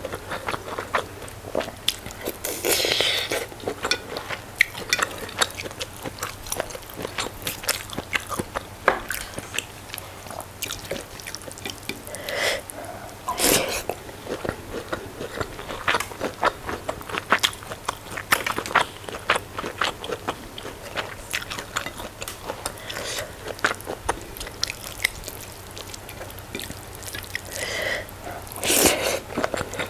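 Close-miked wet chewing and lip-smacking of a mouthful of food, a steady run of small clicks with a few louder smacks.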